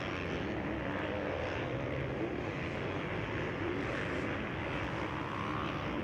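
Motocross bike engines racing on the track: a steady mixed engine drone, with pitch wavering as riders rev and back off.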